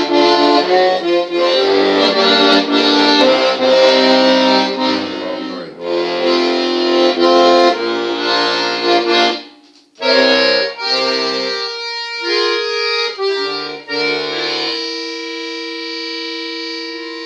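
Accordion playing chords and a melody, with a short break about ten seconds in, then a few notes and a final held chord that slowly fades.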